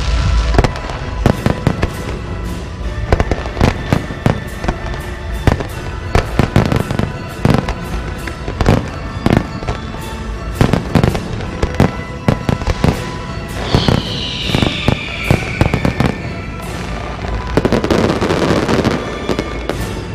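A dense, rapid run of firecracker and firework bangs, with a falling whistle about two-thirds of the way through and a rushing hiss near the end.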